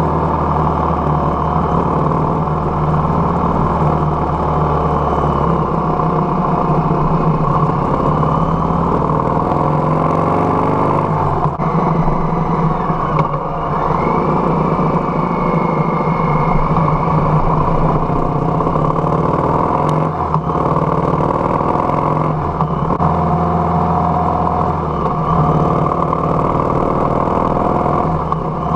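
Harley-Davidson Softail Heritage's V-twin engine running steadily at road speed. The engine note shifts about eleven seconds in and again around twenty-three seconds.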